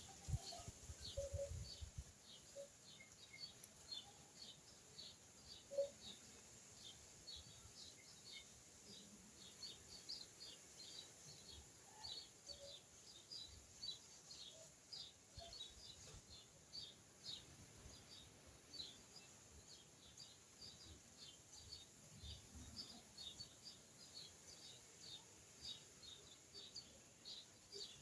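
Faint bird chirping: a steady run of short high chirps, several a second, over a low background hiss, with a few soft low knocks in the first couple of seconds.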